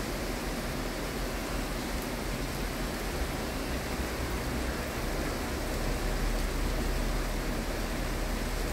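Steady hiss of rain falling over the city, with a low rumble underneath that grows a little stronger about six seconds in.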